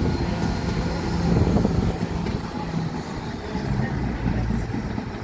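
Class 171 Turbostar diesel multiple unit's underfloor diesel engines running with a steady low drone and rumble as the train moves through the station, easing off slightly near the end.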